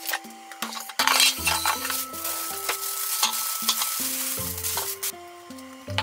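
Plastic crinkling and rustling for about three seconds, from about a second in, with light clicks of handling after it. Soft background music plays throughout.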